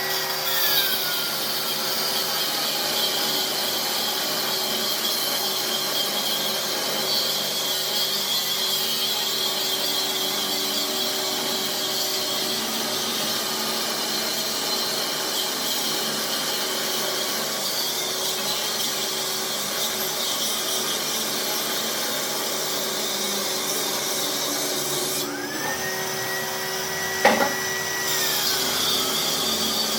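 A workshop power tool running steadily, its pitch shifting near the end, with one sharp click shortly before the end.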